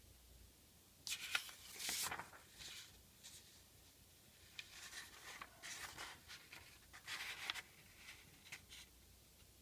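A sheet of origami paper rustling and crinkling as it is handled, in several short bursts: one about a second in, a longer stretch in the middle and a brief one near the end.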